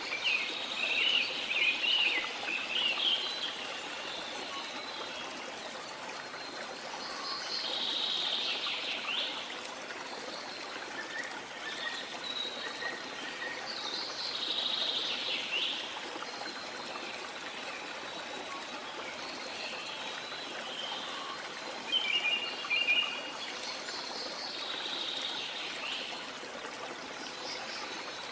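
Steady rush of running water from a stream or waterfall, with birds singing over it in bursts of high chirps and trills every few seconds, loudest near the start and about three-quarters of the way through.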